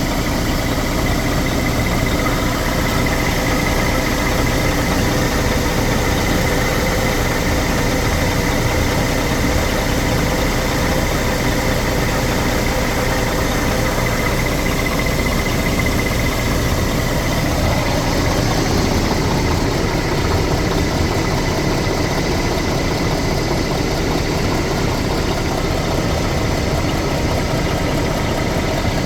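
Scania R420 truck's diesel engine idling steadily.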